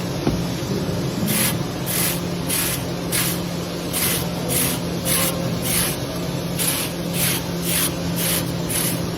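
A metal fin comb being raked repeatedly through the thin aluminium fins of an air-conditioner coil, each stroke a short rasping scrape, about two a second, over a steady low hum.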